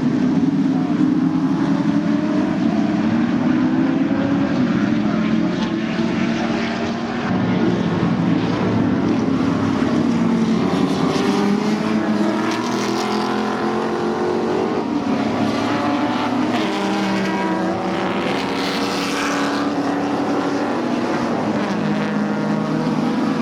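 A field of historic Group NC touring cars racing on the first lap, with several engines running hard at once. Their pitches keep rising and falling as the cars accelerate and change gear.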